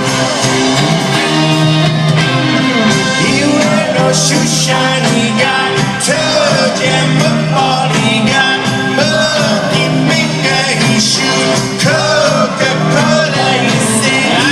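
Live rock band playing loudly with guitars and sung vocals, continuous throughout, with little deep bass.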